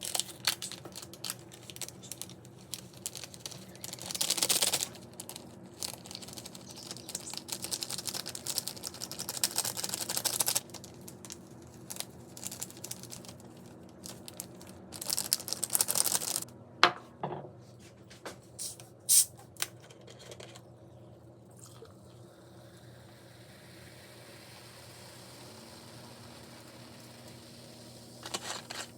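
Kitchen food-preparation sounds: irregular rustling, scraping and clinking in bursts, with a few sharp clicks between about 17 and 19 seconds in, over a steady low hum.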